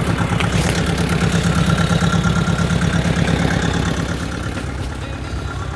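An engine running steadily at idle, with a low, even pulsing; it eases off slightly after about four seconds.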